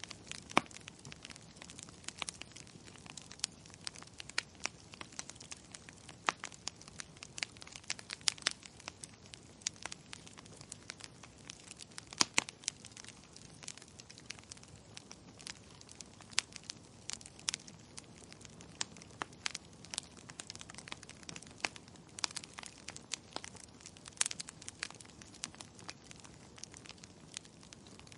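Wood fire crackling in a fireplace: irregular sharp pops and snaps, some louder, over a steady soft hiss.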